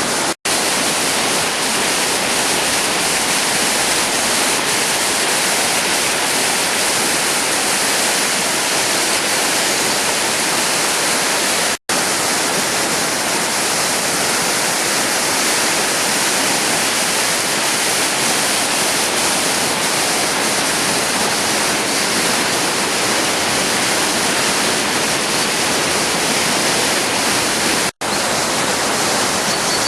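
Floodwater rushing loudly and steadily. The sound drops out to silence three times, each for a split second.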